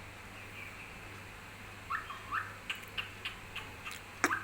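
Pet bird chirping: two short rising chirps about two seconds in, then a run of quick, sharp calls that get louder near the end.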